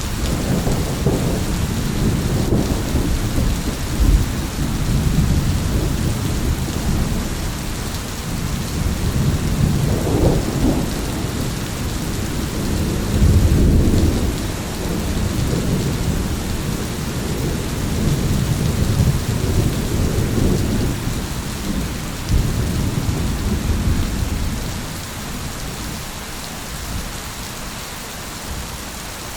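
Steady heavy rain with rolling thunder, deep rumbles swelling and fading again and again, easing off near the end.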